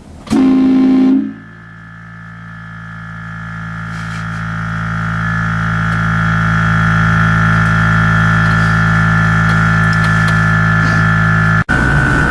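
Truck-mounted train horn blasting: a short loud blast, then one long held multi-note chord that grows louder over several seconds and stays loud, with an abrupt break near the end.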